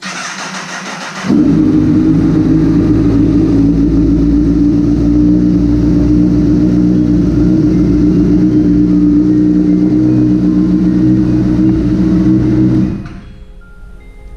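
Honda CBR1000RR Fireblade's inline four-cylinder engine being started: the electric starter cranks for about a second, the engine catches at once and settles into a steady idle, then is switched off near the end. A quick, clean start.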